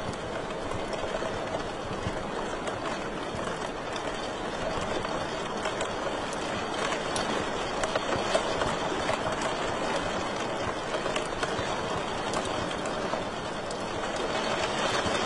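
Wood fire crackling in a fireplace: a steady hiss dotted with frequent small pops and snaps.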